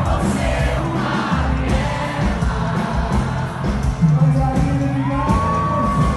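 Live sertanejo-pop concert music: a band with a steady bass beat and a singer, with a long held sung note near the end, and the crowd whooping and yelling along.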